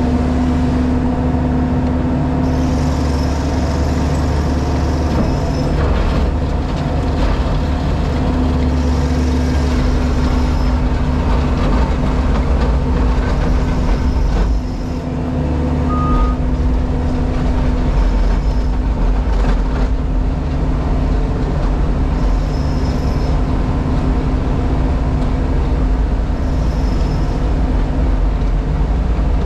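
JCB Pothole Pro's diesel engine and hydraulics running steadily, heard from inside the operator's cab, with a constant low drone. A faint high whine comes and goes several times over it.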